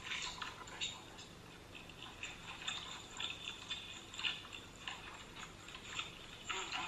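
Close-miked eating: crunching and chewing of battered fried shrimp, heard as irregular crisp clicks and crackles, a few a second.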